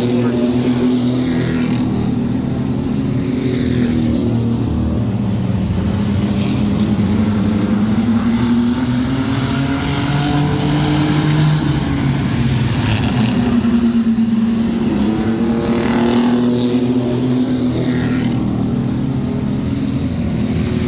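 A field of mini trucks racing on an oval track, engines running hard. The engine note rises and falls as the trucks go by again and again.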